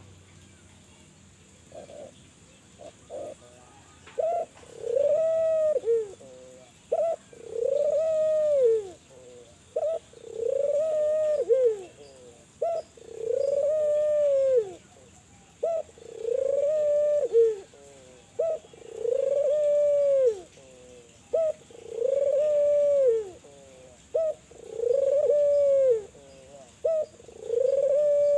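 Spotted dove (tekukur) cooing over and over: each phrase is a few short clipped notes followed by a long arching coo, repeating about every three seconds. The calling starts about two seconds in.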